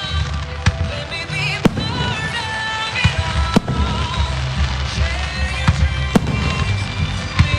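Fireworks shells bursting with sharp bangs at irregular intervals, about six or seven of them, over a loud music soundtrack with deep bass, as in a pyromusical show.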